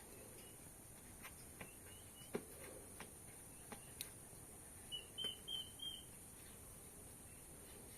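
A small bird chirping: faint chirps early on, then four quick, short chirps about five seconds in. Underneath is a steady high hiss, with a few scattered sharp clicks.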